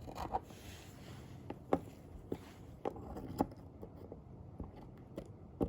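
Scattered light, sharp clicks and taps of hand dental instruments, an amalgam carrier and condenser, as amalgam is carried into and packed in a molar cavity, roughly eight in all at irregular intervals.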